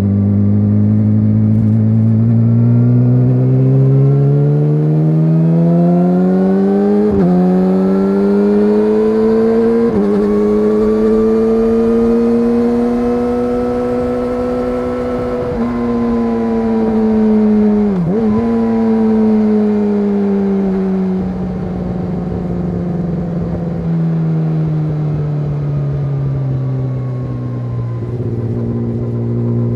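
Yamaha YZF-R6 inline-four with an SC-Project SC1-R exhaust pulling up through the gears, its note climbing and dropping sharply at each upshift about 7 and 10 seconds in. It then holds a steady pitch, falls slowly as the bike slows, and rises again near the end.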